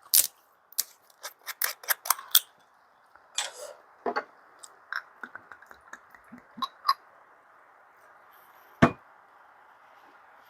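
A run of small sharp clicks and taps of tableware being handled, quick and clustered in the first couple of seconds and scattered after, with one louder knock near the end, over a faint steady hiss.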